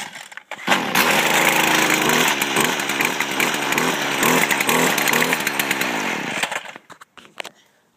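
Stihl FC56 edger's small two-stroke engine cold-started on full choke after five primes: the starter cord is pulled and the engine catches less than a second in, running with a wavering speed for about six seconds before it stops.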